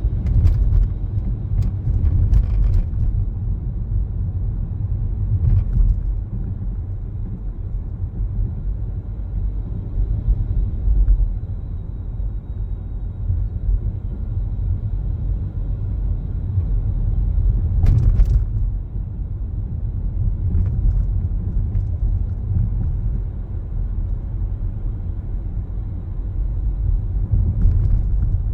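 A car driving: steady low road and engine rumble, with a few short knocks or clicks, the sharpest a little past the middle.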